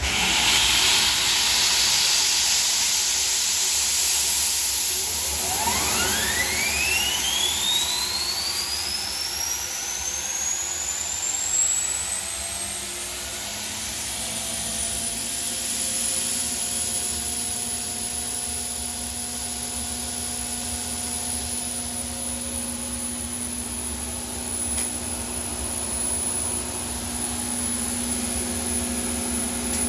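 GE turbine starting up. A rushing noise comes on at once, then a whine climbs steadily in pitch for several seconds as the rotor spins up, and it levels off into a steady high whine at running speed.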